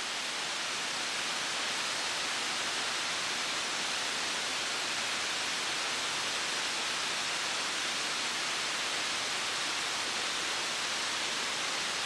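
Mountain stream rushing over rocks: a steady, even hiss of flowing water.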